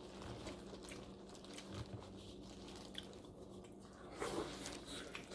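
Quiet mukbang eating sounds: soft chewing and small mouth clicks while seafood boil is eaten, with a brief louder smack or slurp about four seconds in. A faint steady hum runs underneath.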